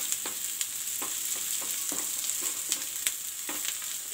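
Chopped onion, garlic and sweet corn sizzling in hot oil in a pan, stirred with a wooden spatula that scrapes and taps against the pan at irregular moments.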